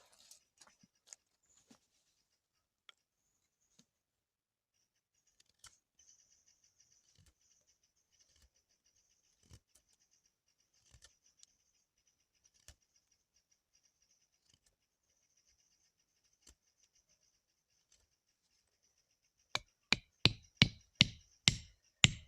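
Scattered faint clicks and taps over a faint steady high-pitched hiss, then near the end a quick run of about eight sharp knocks, roughly three a second.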